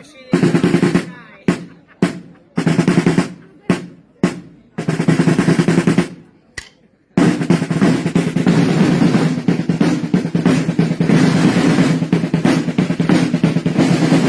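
Side drums playing rolls: several short rolls, each stopping suddenly, with pauses between them, then one long unbroken roll from about seven seconds in.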